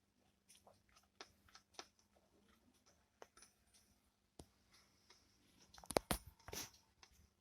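Faint crackles and scattered clicks over a low steady hum from a Philips 15RB525 valve radio tuned between stations, with a louder cluster of crackles about six seconds in.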